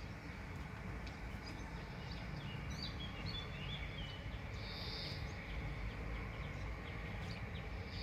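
Steady outdoor background hiss with a few faint, short bird chirps from small birds near the middle.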